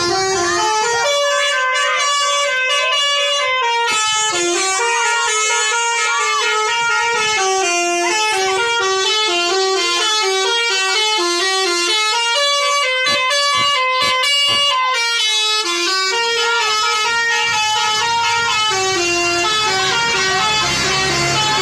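A bus's multi-tone musical horn, the Indonesian 'telolet' type, sounding loudly and continuously, stepping through a quick melody of short held notes.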